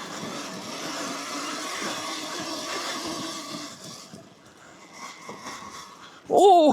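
Yamaha WR450F dirt bike's single-cylinder four-stroke engine running under way, with wind noise, easing off about four seconds in. Near the end comes a loud, drawn-out "oh" from the rider.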